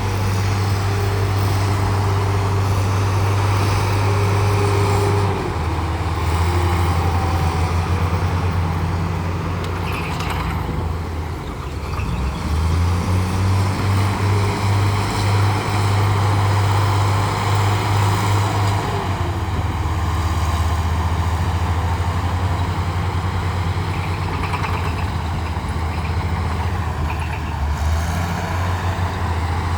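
Bulldozer's heavy diesel engine running under load, its low note dropping and rising several times as the load changes, with a brief lull about eleven seconds in.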